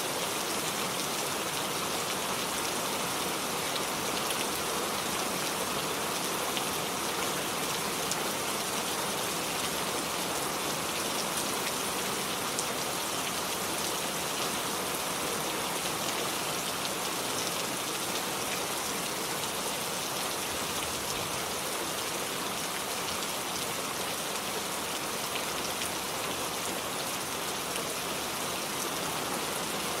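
Steady rainfall, with drops pattering on surfaces.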